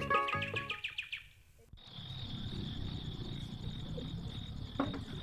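Plucked-string background music fading out, then, after a cut, outdoor ambience with a steady high-pitched chirring over a low background rumble. A single short knock near the end.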